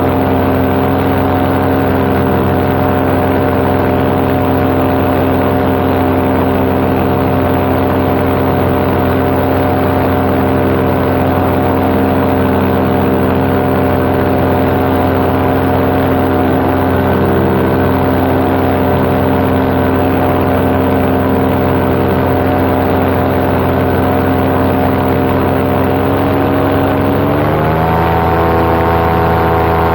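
Paramotor engine and propeller running steadily in flight, heard from the pilot's seat. About 27 seconds in, the engine's pitch rises quickly and holds at the higher speed.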